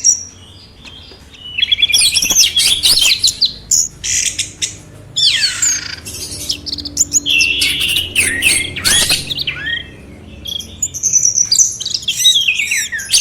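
Caged songbird singing a fast, varied song of chirps, trills and sweeping whistles, in bursts with short pauses.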